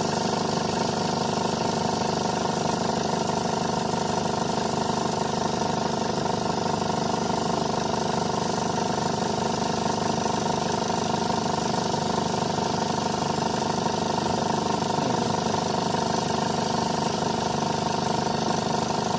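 Chevrolet Colorado engine idling steadily with the air-conditioning compressor and belt-driven accessories running, an unbroken whine over the engine hum. The noise is attributed to the AC compressor running at too high a refrigerant pressure and to a failed accessory pulley.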